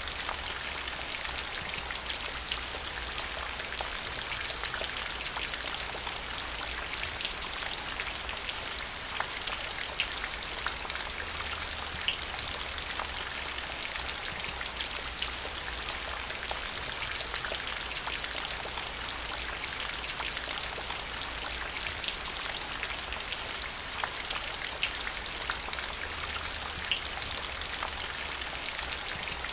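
Steady rain falling on wet paving stones and puddles. A constant hiss carries scattered sharper drop splashes, over a low steady rumble.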